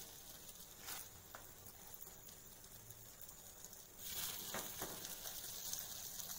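Faint sizzling of a rice-and-egg mixture in the cups of a hot, oiled nonstick multi-cup pan, with a few light clicks of a metal spoon against the pan. The sizzle grows louder about four seconds in, as another spoonful goes into a cup and is pressed down.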